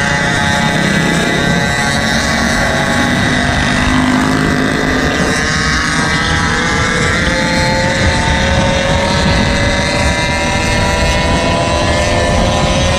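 Small gas engines of Gopeds and mini bikes running together during a ride, several droning at different pitches, with one slowly rising in pitch in the second half.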